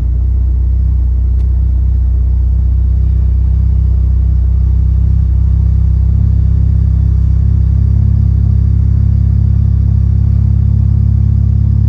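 1997 Mitsubishi Eclipse GSX's turbocharged 4G63 inline-four idling steadily, a low drone that swells slightly partway through. The idle target has just been raised to 1050 rpm, a setting the owner says the engine doesn't like.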